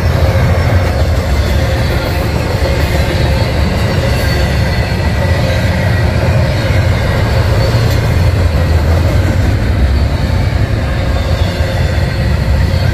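Double-stack intermodal well cars loaded with shipping containers rolling steadily past close by: a continuous low rumble and rattle of steel wheels on the rails.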